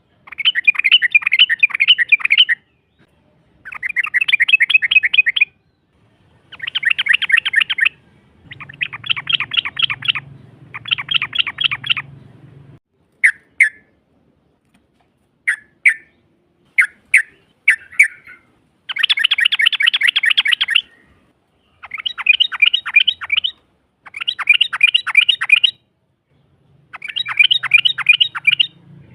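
Yellow-vented bulbul (trucukan) giving its long rattling 'ropel' call: repeated bursts of rapid chattering notes, each about two seconds long, with short pauses between them. Midway the bursts give way to a run of single sharp chirps before the rattling bursts resume.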